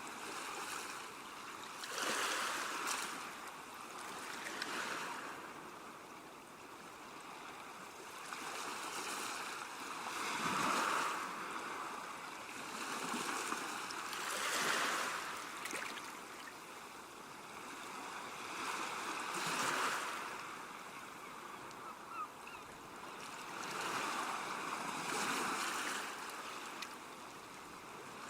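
Sea waves breaking and washing on the shore, one surge after another every few seconds, each swelling and then fading back.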